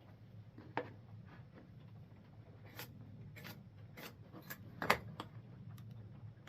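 Pencil marking a board, with a few light clicks and taps from handling the wood and tools, the sharpest about five seconds in, over a low steady hum.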